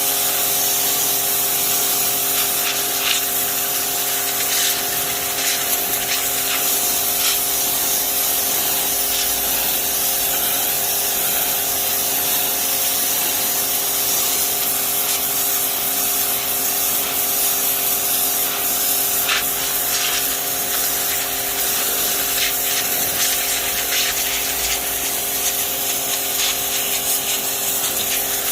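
Wilks RX 550i electric pressure washer running steadily, its motor and pump giving a constant hum under the loud hiss of a water jet from the 0-degree nozzle.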